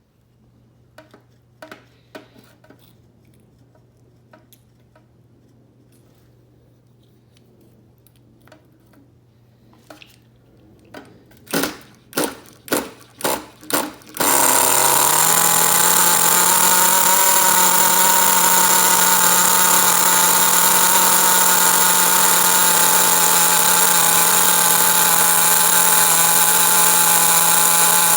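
Light clicks and handling noises, then five or six short cranking bursts. The SH-18 nitro glow engine of an HPI RS4 3 Evo RC car catches about halfway through and settles into a steady, loud idle, run sloppy rich for its first break-in tank.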